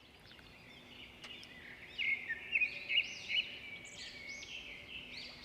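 Small birds chirping and twittering in the background: a run of short, high, repeated chirps starts about two seconds in.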